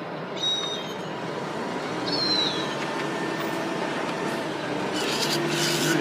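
A steady background rumble with two brief, thin, high bird calls, one about half a second in and a falling one about two seconds in. A low steady hum joins near the end.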